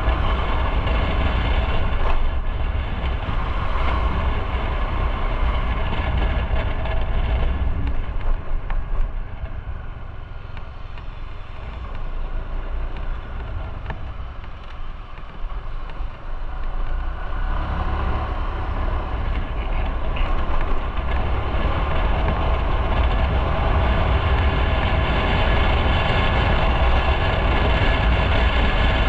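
Motorcycle engine running under way, with low rumble and road noise. It drops off for several seconds near the middle, then picks up again.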